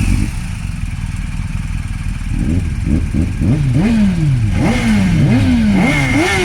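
Motorcycle engines revved in a rapid series of throttle blips: each rev climbs sharply and then falls away. After a steadier first two seconds the blips come thick and fast, some overlapping.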